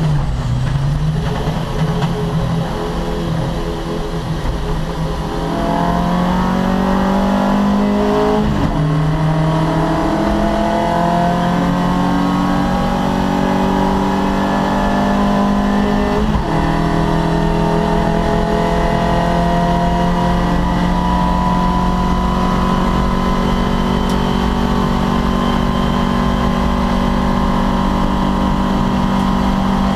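Opel Kadett C racing car's four-cylinder engine accelerating hard through the gears: the pitch climbs, drops sharply at upshifts about 8 and 16 seconds in, then holds high and steady at full throttle.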